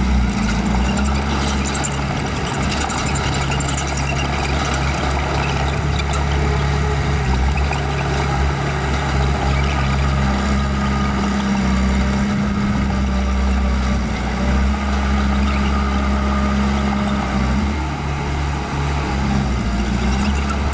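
Small bulldozer's diesel engine running steadily, its note shifting a little as the load changes, with a higher tone joining in for several seconds from about halfway through.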